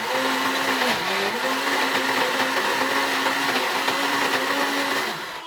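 A voice singing a nasheed, holding one long note, over a steady loud whirring noise.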